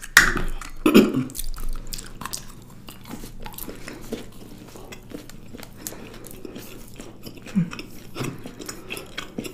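Close-miked chewing of soft chocolate-coated treats, a chocolate egg and a chocolate-covered donut: many small wet mouth clicks and smacks, loudest in the first second or two.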